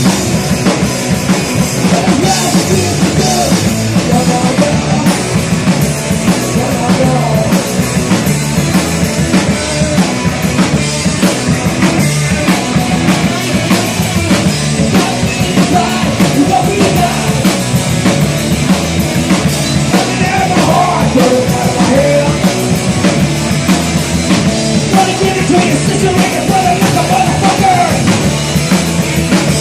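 Live rock band playing a loud rock song, with a drum kit keeping a steady beat under amplified instruments.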